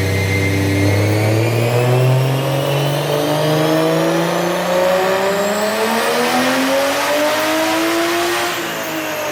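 Turbocharged BMW M52 inline-six running a full-throttle dyno pull, its note climbing steadily through the revs for about eight seconds, then dropping sharply near the end as the throttle is lifted.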